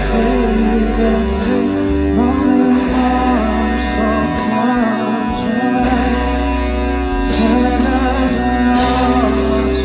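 Live band music with a wavering vocal melody over sustained bass and plucked guitar.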